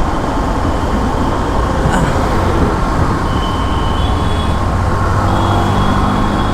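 Motorcycle engine running in slow city traffic, with the steady noise of surrounding vehicles. Faint high steady tones come in about halfway through.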